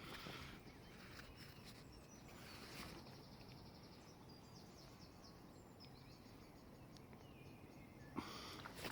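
Quiet riverside ambience with faint, short bird chirps, and a brief rustle near the end.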